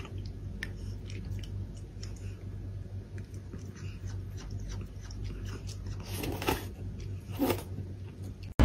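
Close-up chewing and crunching: a run of small irregular clicks over a low steady hum, with two louder crunches near the end.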